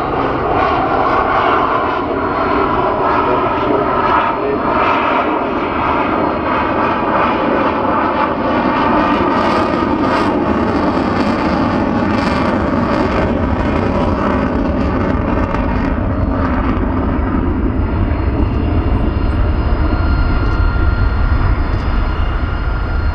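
Jet noise from a Boeing F/A-18 Super Hornet's twin General Electric F414 turbofans during a display, a loud, steady roar. Its deep rumble grows heavier in the second half.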